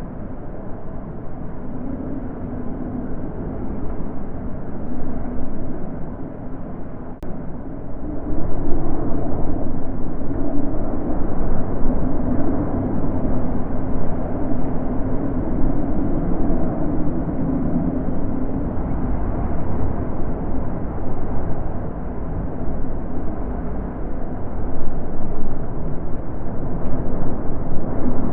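Wind blowing in a low, rushing noise that swells and eases in slow gusts, growing louder about eight seconds in and again near the end.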